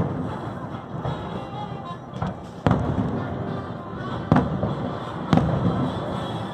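Fireworks shells bursting in a string of sharp bangs every second or so, the loudest three in the second half, over steady show music.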